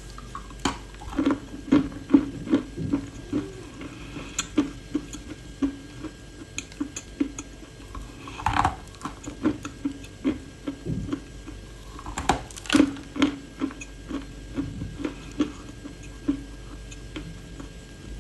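A person biting and chewing crunchy clay, a steady run of crunches about two to three a second, with two louder bites about eight and a half and twelve and a half seconds in.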